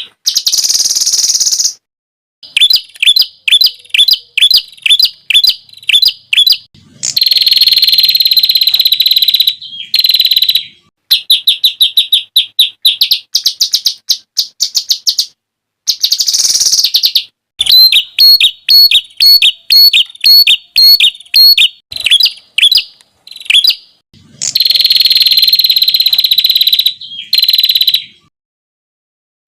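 Songbird song of the 'tembakan' kind used for tutoring competition birds: fast runs of sharp, high repeated notes in phrases of one to four seconds, broken by abrupt, clean gaps.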